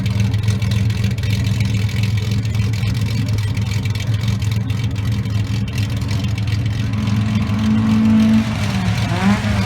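Classic car engines running at low revs through loud aftermarket exhausts, a steady low drone. About seven seconds in one engine holds a higher, louder note, and near the end there is a quick rev up and back down.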